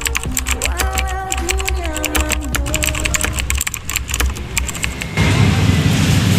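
Rapid keyboard typing clicks over a simple melody of held notes. About five seconds in it cuts abruptly to a louder, steady rushing noise.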